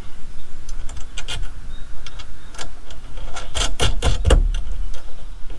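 Metal clicks and clinks of bolts, washers and tools being handled while the wheel hoe's steel parts are bolted together, in scattered taps with a quick cluster of sharper clanks about four seconds in, over a low rumble.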